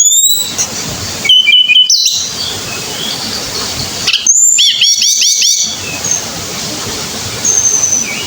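A tledekan gunung songbird singing: a quick rising whistled phrase at the start, a short phrase of clear notes about a second and a half in, and a longer phrase about four seconds in that ends in a fast run of looping whistles. Faint thin whistles follow near the end.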